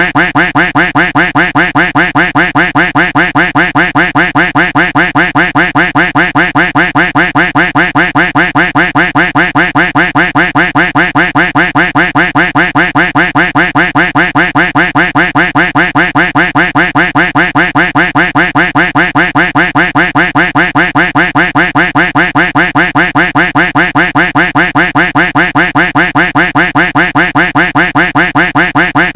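Duck quack sound effect repeated in a fast, unbroken loop, several quacks a second, each one the same.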